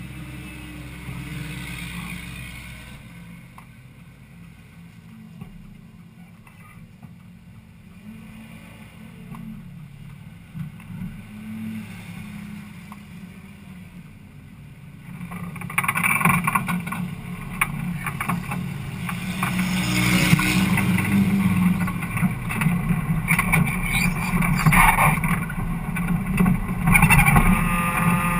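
Ford Cortina dirt-track race car's engine idling, heard from inside the cabin. About halfway through it revs up as the car pulls away, and it runs much louder from there on.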